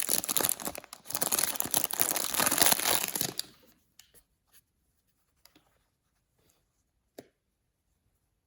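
Paper blind-bag packaging being torn open and crumpled, a dense crackling that stops about three and a half seconds in; a few faint light taps and clicks follow.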